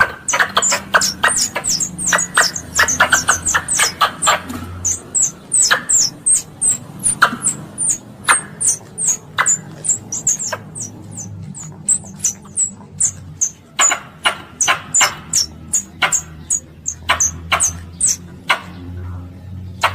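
Squirrel (tupai) calling: a rapid chatter of sharp clicks and short, high, falling chirps, several a second, thinning out for a few seconds midway before picking up again. It is the calling sound used to lure other squirrels in.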